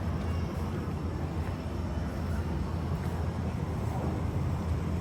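Steady low rumble with a fainter hiss above it: outdoor background noise.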